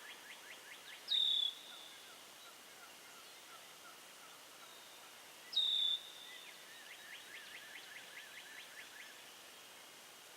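Songbirds singing outdoors: rapid trills of short repeated notes, about ten a second. Twice, a loud, short whistled note drops sharply in pitch and then holds briefly, about a second in and again past the middle.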